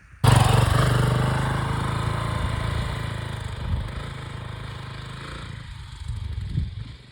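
Trail motorcycle engine running, starting abruptly about a quarter second in and then slowly fading.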